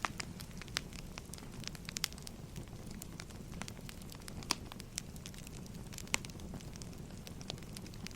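Burning firewood crackling: irregular sharp pops and snaps over a steady low rumble, the loudest pops about half a second in, about four and a half seconds in and about six seconds in.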